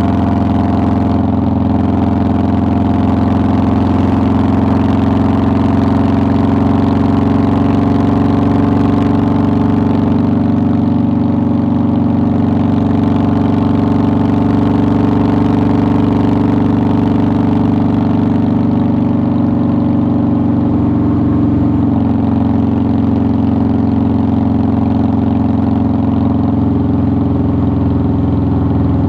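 2009 Harley-Davidson Softail Deluxe's air-cooled Twin Cam 96 V-twin running steadily under way. Its note eases slightly lower about two-thirds of the way through.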